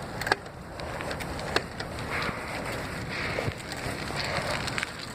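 Wind rushing over the action camera's microphone and bicycle tyres rolling, a steady noise with a few sharp knocks of the bike rattling, the loudest about a third of a second and a second and a half in.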